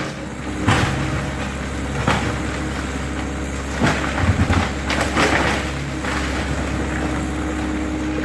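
Excavator's diesel engine running steadily while it demolishes a garage, with several sharp cracks and crashes of the structure breaking: about a second in, at two seconds, a cluster around four seconds and another at five.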